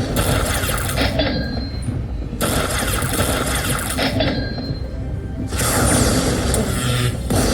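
Electronic poker machine playing its reel-spin sounds: a clicking, jingling sound effect about every three seconds, each starting with a short high chime, over the low hum of a gaming room.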